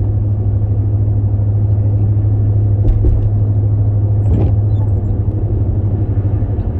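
Steady low rumble of a car heard from inside the cabin while driving: engine and tyre drone on the road, with a couple of faint knocks partway through.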